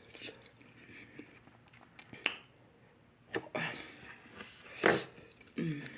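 Close-miked eating: chewing with a few sharp mouth clicks and crunches, the loudest about five seconds in, then a short hummed 'mm' near the end.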